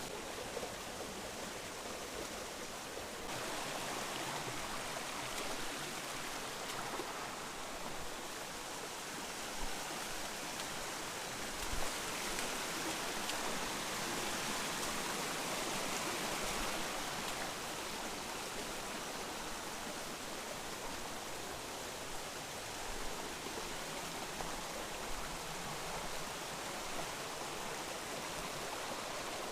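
Mountain river rushing steadily over rocks, with a few soft knocks now and then.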